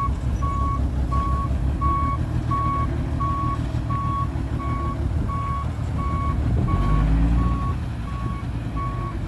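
Reversing alarm of heavy earthmoving equipment beeping steadily, about three beeps every two seconds, over diesel engine rumble that swells and climbs in pitch about seven seconds in.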